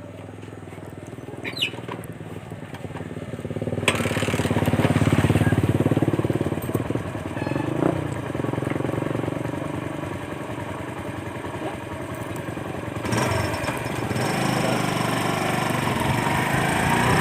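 Motorcycle engine running as the bike rides along, getting louder about four seconds in, with a rushing noise building near the end.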